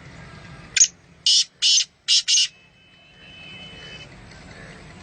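A bird giving five harsh, rasping calls in quick succession, each short, over a low steady background.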